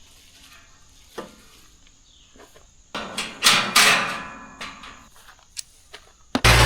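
Scattered clicks and knocks, then a loud clattering, rustling burst around the middle. Near the end a Kubota L35 tractor's diesel engine comes in suddenly and runs steadily.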